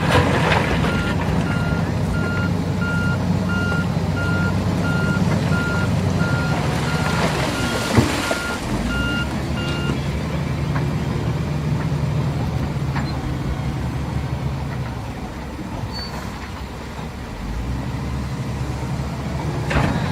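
A heavy construction vehicle's reversing alarm beeping evenly, about one and a half beeps a second, over its running engine. The beeping stops about halfway through while the engine keeps running, with a single sharp knock shortly before the beeps end.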